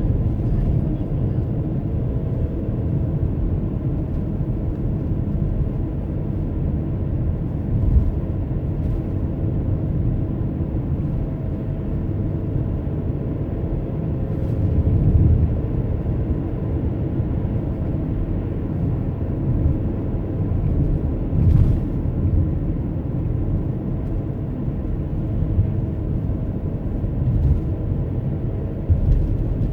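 Steady low road and engine rumble of a moving car, heard from inside the cabin, with a few brief thumps from bumps in the road.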